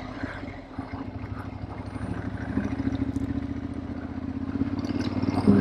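2012 Ducati Monster 696's air-cooled L-twin engine with Akrapovic slip-on exhausts, running steadily at low road speed and gradually getting louder toward the end.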